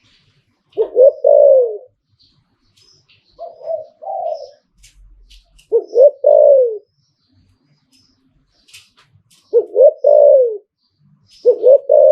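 Spotted dove cooing: five two-part phrases a couple of seconds apart, each a short rising note followed by a longer falling note, the second phrase softer. Faint high chirps sound between the phrases.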